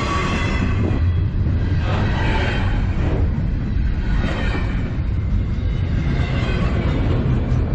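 Autorack freight cars rolling past close by: a steady heavy rumble of steel wheels on rail, with clatter that swells and fades every couple of seconds as the cars go by.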